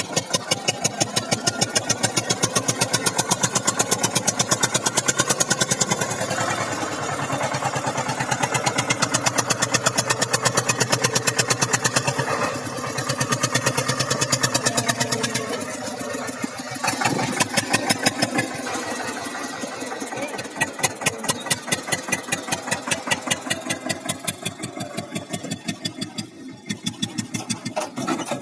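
Eicher 242 tractor's diesel engine chugging with a fast, even beat, revving up and easing off several times.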